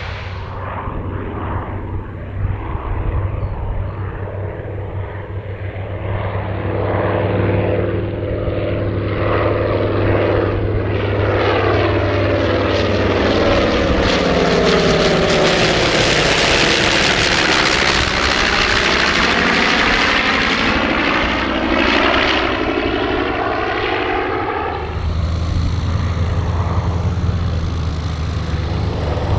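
B-25 Mitchell's twin Wright R-2600 radial engines on a flyby, building up to a loud peak about halfway through and then fading as the bomber passes.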